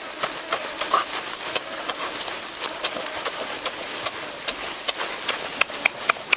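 Wet chewing and lip-smacking of a person eating cooked octopus close to the microphone, irregular sharp clicks and squelches several times a second, over a faint steady hiss.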